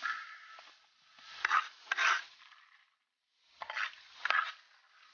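Rough rubbing or scraping strokes in a few short clusters, with brief pauses between them.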